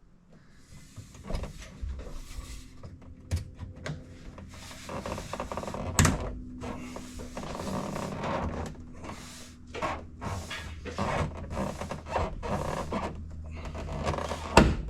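Interior trim pieces being handled and fitted inside a car: rustling and scraping, with a sharp snap about six seconds in and a louder one near the end.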